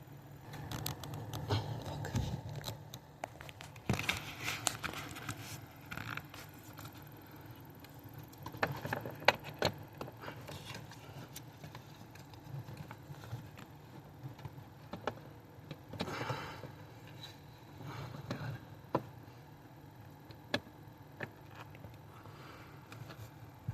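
Irregular handling noises: scraping, rustling and scattered sharp clicks, in bursts rather than a steady rhythm, over a faint low hum.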